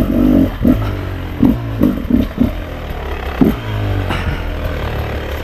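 Beta RR 300 two-stroke enduro motorcycle engine revving up and down in repeated surges as it is ridden.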